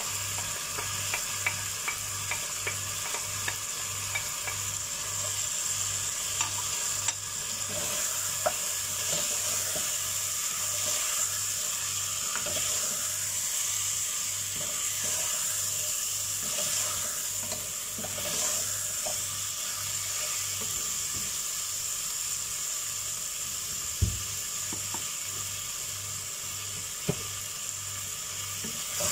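Mutton masala sizzling in a pot as a spatula stirs and scrapes through it, with scattered light clicks of the spatula against the pot and a sharper knock near the end.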